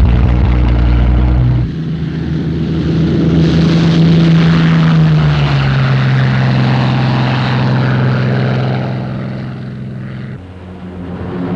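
Propeller aircraft engines droning, the pitch sinking slowly through the middle as the plane passes. The sound changes abruptly twice, like cuts between shots.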